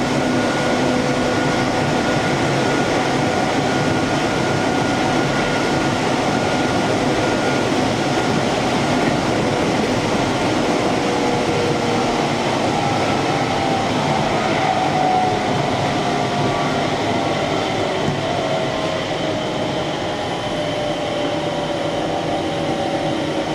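Keihan electric train running, heard from inside the front car: steady running noise with the whine of the traction motors. The whine slowly falls in pitch in the second half as the train slows.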